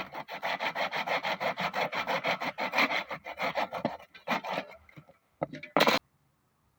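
Hand tool worked quickly back and forth on wood, about five strokes a second, in the manner of hand sawing or rasping. It stops about four and a half seconds in, followed by a few single scrapes and one louder, sharp scrape near the end.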